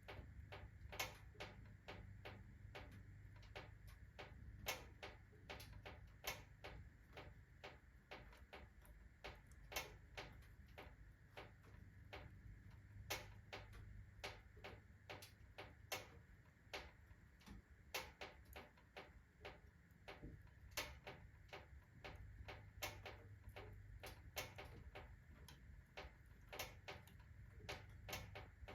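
Iron body of a wood-burning fireplace stove ticking and clicking as it heats up fast and expands, with irregular sharp clicks several times a second over a faint low hum.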